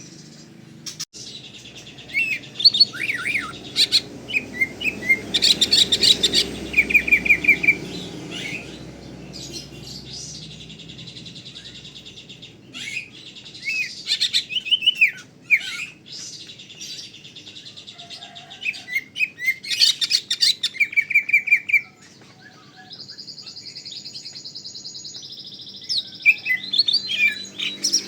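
Cucak ijo (green leafbird) singing in bouts of quick, varied whistles, chips and rapid trills, with short pauses between bouts and one steady high note held for a couple of seconds near the end.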